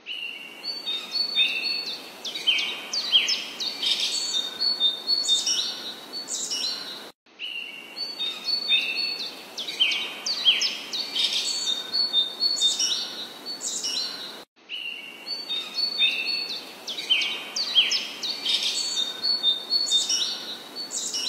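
Small songbirds chirping in quick runs of short high notes over a soft, steady hiss. The same stretch of birdsong repeats three times, broken by brief gaps about every seven seconds: a looped recording.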